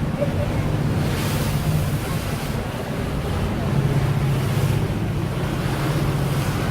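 A boat's engine humming steadily under wind buffeting the microphone and water rushing past the hull, with a gust or splash about a second in.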